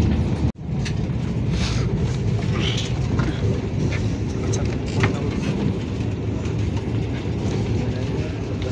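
Steady low rumble of a Vande Bharat Express electric train set running at speed, heard from inside the passenger coach. The sound cuts out for an instant about half a second in.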